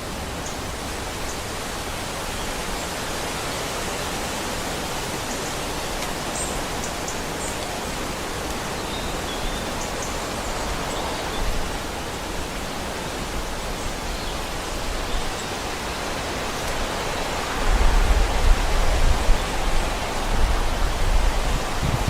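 Steady outdoor rushing noise, with a few faint, short, high bird chirps in the first half. About eighteen seconds in, a low rumbling comes in and becomes the loudest sound.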